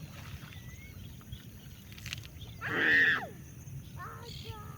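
One loud cry about three seconds in, over a steady low rumble.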